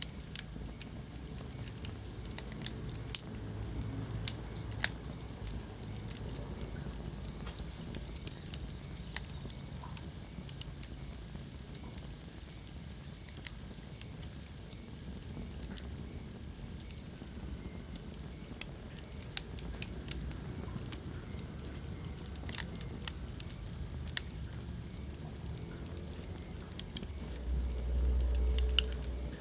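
Wood fire in a fireplace crackling, with irregular sharp pops over a steady low rumble of the flames. Near the end the low rumble swells louder for a couple of seconds.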